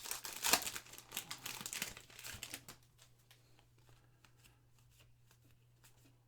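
Crinkling of a foil trading-card pack wrapper as it is torn open and handled, dense for the first two and a half seconds and then dying down to a few faint rustles.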